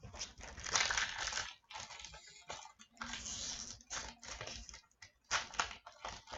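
Hockey card pack wrapper crinkling and tearing as it is opened by hand, in irregular rustling bursts with short pauses between them.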